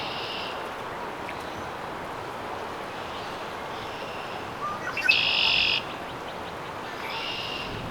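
A songbird singing short buzzy phrases, each under a second, repeated every couple of seconds, with the loudest about five seconds in. The song sits over a steady hiss of outdoor background noise.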